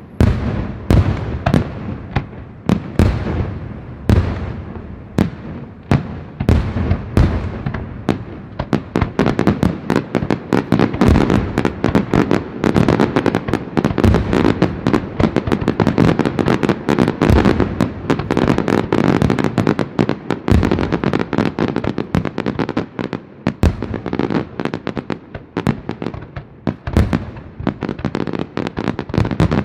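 Fireworks display: separate shell bursts, one or two a second, give way about nine seconds in to a dense barrage of overlapping bangs and crackle, which thins back to single bursts near the end.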